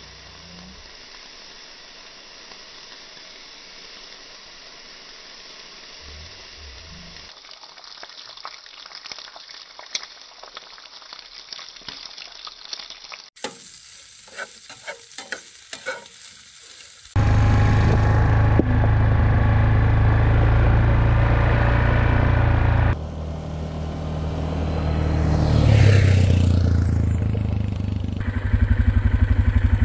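Food sizzling in a frying pan, with crackles and pops growing more frequent. Then, much louder, a vehicle engine running, its pitch rising and falling a few seconds later, and a rhythmic engine putter near the end.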